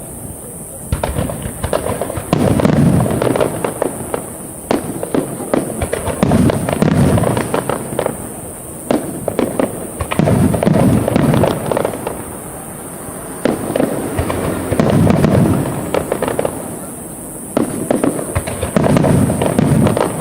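Aerial fireworks shells bursting in quick succession. A deep boom comes about every two seconds, with sharp crackling pops in between.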